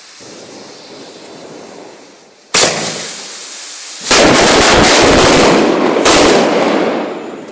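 Chinese firecrackers going off. A sudden loud bang comes about two and a half seconds in, then a rapid string of cracks lasts about two seconds, and another burst near the end fades away.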